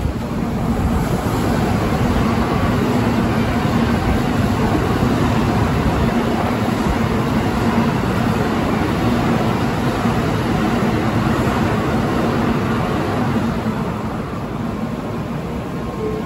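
N700A Shinkansen train passing through the station at speed on snowy track: a loud, steady noise of wheels and air with a low hum under it. It builds about a second in and eases off near the end as the train goes away.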